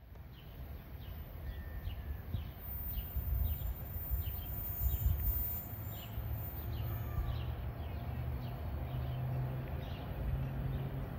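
A bird chirping over and over, about two chirps a second, over a low rumble that grows louder, with a steady engine hum joining about halfway through as a train draws near.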